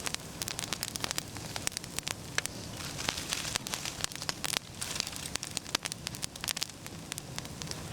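Campfire of damp oak branches burning briskly, with dense, irregular popping crackles over a steady hiss of steam escaping from the wet wood.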